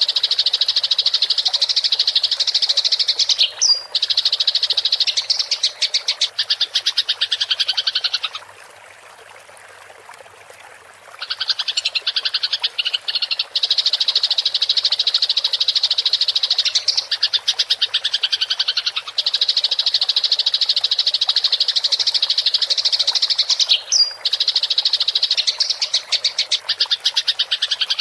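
Eurasian tree sparrows (burung gereja) giving their fighting chatter: a dense, rapid, continuous rolling chatter. It breaks off about 8 seconds in and resumes about three seconds later.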